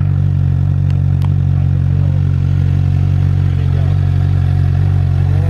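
2016 Suzuki GSX-R600's inline four-cylinder engine idling steadily through its stock exhaust, loud and even.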